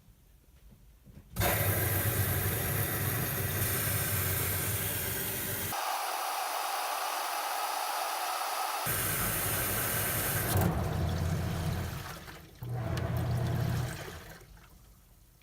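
RCA RPW160-B compact portable washing machine running its wash cycle: water rushing and sloshing in the tub. It comes in stretches that start and stop abruptly, beginning about a second and a half in, with a short quiet gap near the end.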